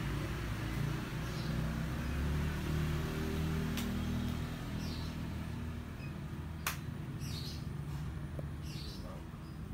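A bird chirping, short high chirps repeated several times, over a steady low rumble, with two sharp clicks.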